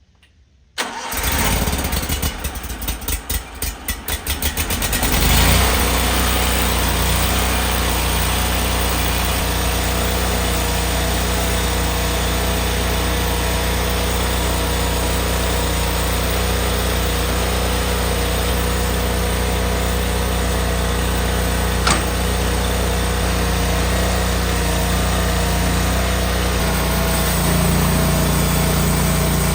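Sawmill engine starting: it comes in suddenly, runs unevenly for a few seconds, then settles into a steady run.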